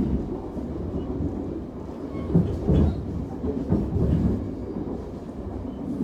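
Passenger train running, heard from inside the coach: a steady low rumble with a few louder thumps of the wheels over the track about two and a half and four seconds in.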